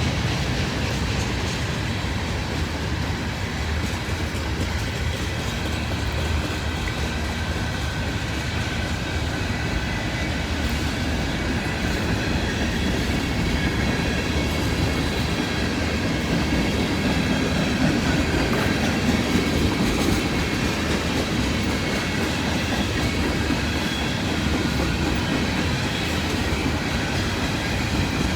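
Freight cars of a long mixed manifest train rolling past: a steady noise of steel wheels on the rails.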